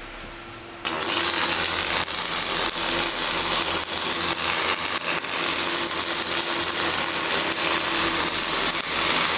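Welding robot's arc striking under a second in, then crackling and sizzling steadily, with many sharp pops.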